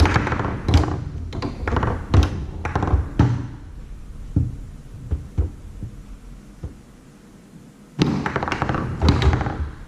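Tornado foosball table in play: a fast run of hard knocks and thunks as the ball is struck and the rods and players hit it, then a lull with a few scattered clicks, and another quick flurry of hits near the end.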